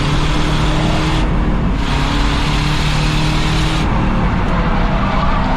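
Race car engine running hard at steady revs on an oval, with tyre and road noise; the hiss eases off briefly about a second in and again near the four-second mark.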